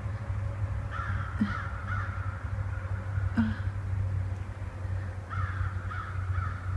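Large birds calling in short, harsh repeated notes: a cluster about a second in, one around the middle, and a run of calls near the end, over a steady low rumble.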